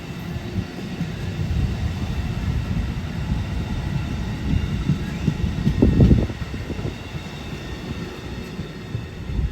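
Amtrak Northeast Regional passenger train passing close by: a steady rumble of wheels on the rails, swelling briefly about six seconds in.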